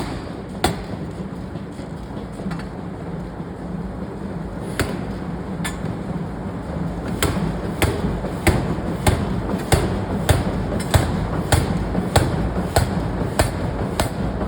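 Heavy forging machinery running with a steady low hum. From about halfway in, a hammer strikes metal in a regular rhythm of about three blows every two seconds, after a few scattered knocks earlier.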